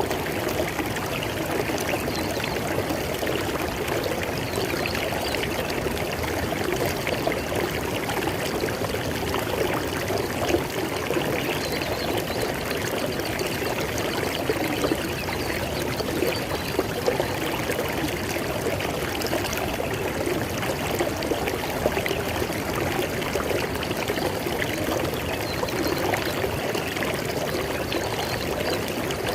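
River water flowing over rocks: a steady rushing and burbling without pause.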